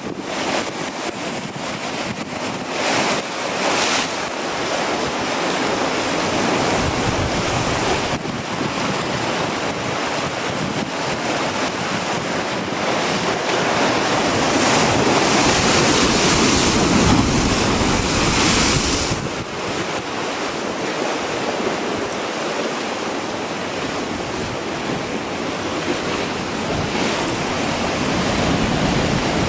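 Strong wind buffeting the microphone over the wash of ocean surf, a continuous rushing noise that swells louder in a gust around the middle and eases off a little after.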